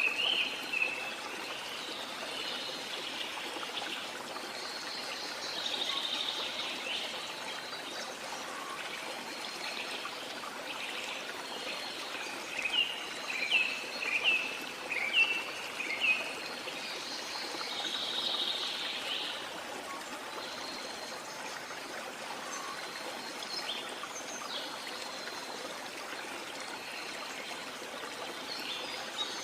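Rainforest ambience: a steady hiss of running or falling water, with birds calling over it, including a run of about six short, sharp chirps in the middle.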